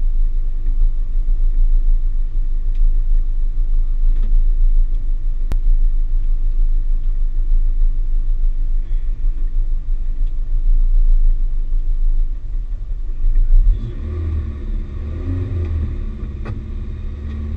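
Citroën AX Sport's small four-cylinder engine idling, heard inside the stripped rally car's cabin, with a heavy low rumble from the vibrating shell. About 14 seconds in the deep rumble eases and the engine's own note comes through more clearly.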